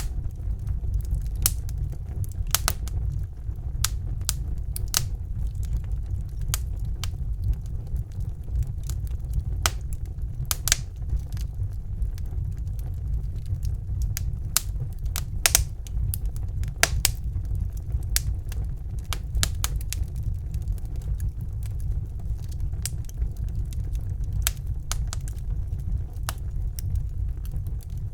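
Wood fire in a fireplace crackling: irregular sharp pops and snaps, a few a second, over a steady low rumble.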